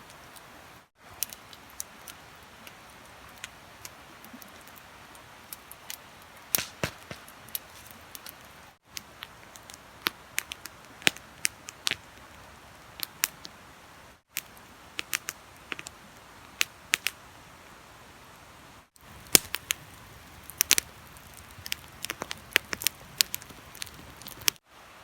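Wood fire crackling, with sharp pops at irregular intervals over a steady hiss; the pops come thicker in the last few seconds. The sound drops out briefly several times where clips are cut together.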